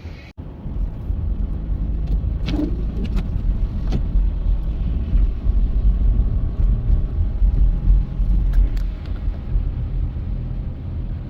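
Steady low rumble of a road vehicle running nearby, with a few short knocks and clicks over it.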